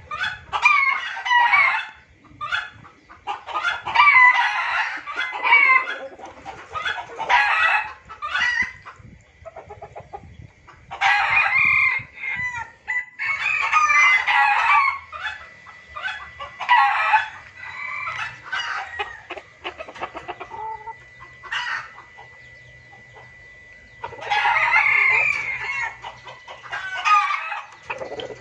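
Junglefowl calling in a noisy lure recording: repeated bouts of clucking and crowing calls that come in bursts with short pauses, going quieter for a few seconds near the end before the calling resumes.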